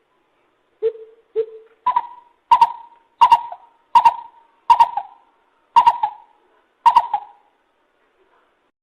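Lesser coucal calling: two lower hollow hoots, then a series of seven louder, higher hoots, the gaps between them widening slightly towards the end.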